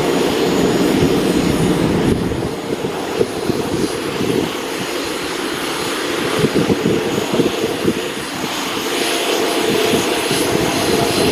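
Jet airliner engines running, a steady dense rushing noise that eases a little midway and builds again toward the end.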